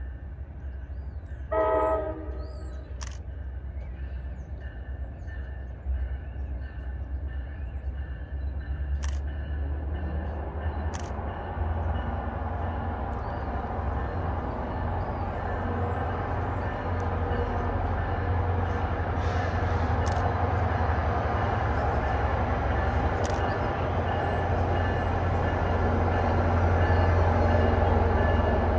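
A train horn gives one short blast about two seconds in. Then the rumble of an approaching train builds steadily louder, over a constant deep engine hum.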